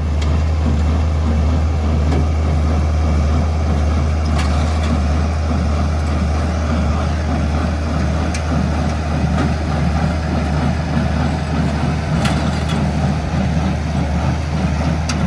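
Massey Ferguson 1840 small square baler running behind a tractor, with a steady, loud low engine and machinery drone and a faint click about every four seconds.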